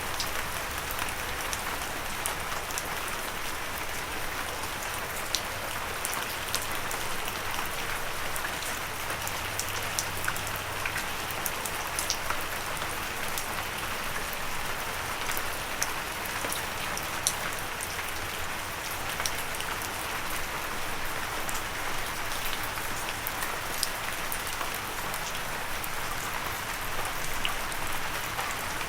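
Steady gentle rain falling on a surface, a continuous patter with scattered sharper individual drop ticks.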